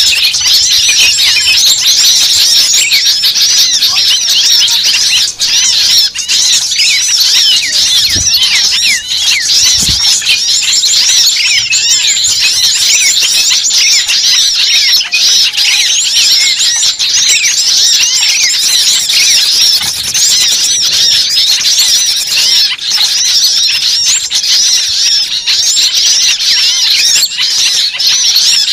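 A dense, noisy chorus of many small forest birds calling at once: rapid, overlapping high chirps, trills and scolding notes with no break. It is a bird-lure recording of agitated small birds, used to draw other birds in.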